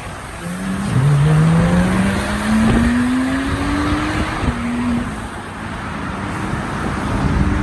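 A car's engine accelerating: its pitch climbs steadily for about three seconds, then drops at an upshift about four and a half seconds in. The engine eases off shortly after.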